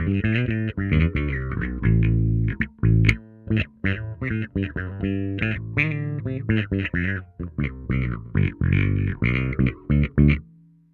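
Bacchus Woodline headless electric bass played through a FLAMMA FC11 envelope filter (auto-wah): a busy run of plucked notes, each opening up brightly as it is struck. The playing stops shortly before the end and the last note fades away.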